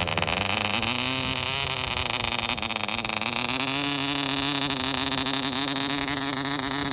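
A 1954 Allbon Dart Mk. 2 0.55 cc model diesel engine running steadily on its third run after being previously unrun, a continuous note that wavers slightly in pitch and rises a little about four seconds in, over a lot of hiss.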